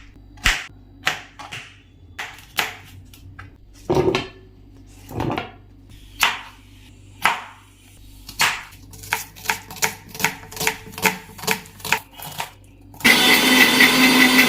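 Kitchen handling sounds: a string of sharp clicks and knocks from utensils and containers, coming quicker for a stretch in the middle. Near the end a loud, steady whirring noise starts.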